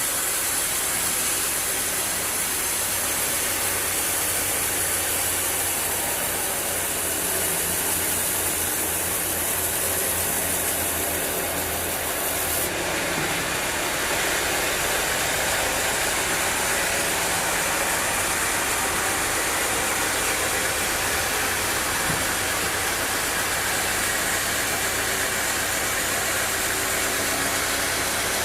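Sawmill machinery running steadily: a constant dense hiss over a low engine hum. The tone shifts abruptly about halfway through.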